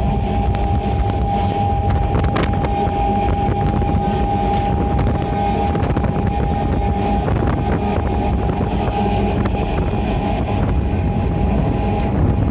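Moving train heard from an open coach door: a steady rumble of the running train with wind buffeting the microphone, a steady high tone held throughout and a single sharp click about two and a half seconds in.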